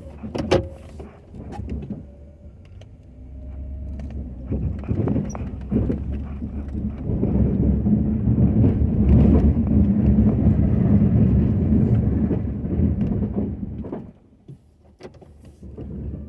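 Pickup truck engine, from a Ford F-250 plow truck, running and pulling harder, building to a steady loud drone and then dropping off suddenly near the end. A few sharp clicks and knocks come just before, at the start.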